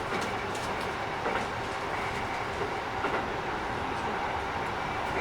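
Keikyu 1000 series electric train running at speed, heard from inside the car: a steady rumble of wheels on rail with faint tones and a few light rail-joint clicks.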